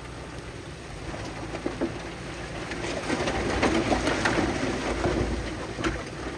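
Loose stone and soil sliding and tumbling, a crackling rush of many small impacts that swells about three seconds in and then eases, over a low machine rumble.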